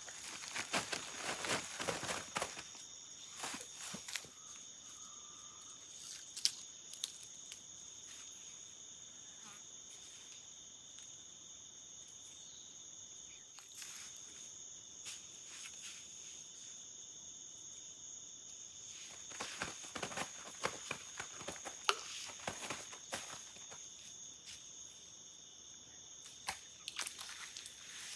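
Steady high-pitched insect chorus made of two continuous shrill tones. Bursts of rustling and clicking come close by in the first few seconds, again from about twenty seconds in, and near the end.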